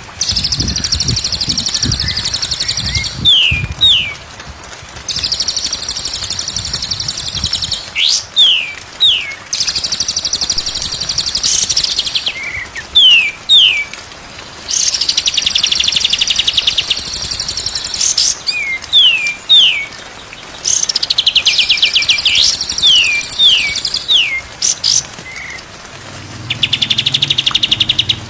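Songbird singing in repeated bouts: long, high, rapidly chattering phrases of two to three seconds each, alternating with quick pairs and triples of sharp descending whistles.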